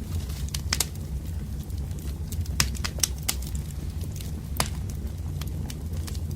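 Wood campfire burning: irregular sharp crackles and pops from the burning logs over a steady low rumble of the flames.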